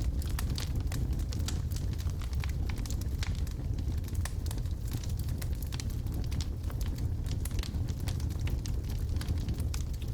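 Wood logs burning in a fireplace: a steady low rumble of the flames with frequent small, irregular crackles and pops.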